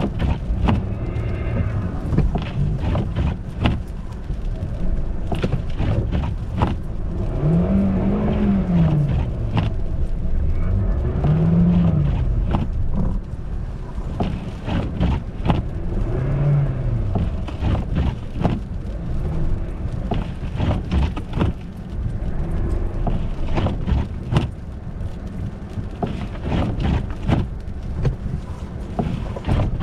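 Car engine revving up and dropping back three times, over a steady low rumble with frequent knocks and crackles.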